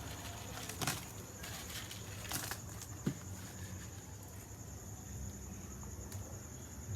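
Faint, steady, high-pitched insect chirring, with a few scattered clicks.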